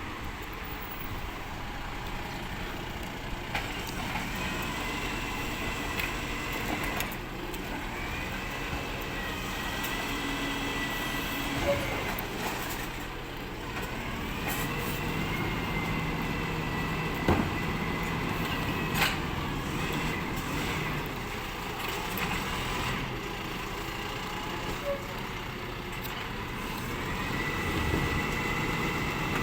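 Recycling collection truck running steadily, with a whine that rises and then holds about four times. A few short sharp knocks fall in between.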